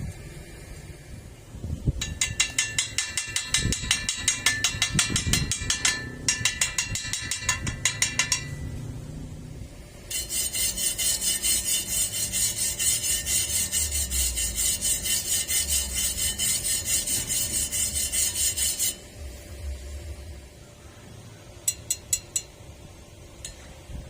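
Metalworking sounds from a stick-welding job. First comes a pulsing tool noise for about six seconds. After a short lull, a welding arc hisses steadily for about nine seconds. A few sharp taps follow near the end.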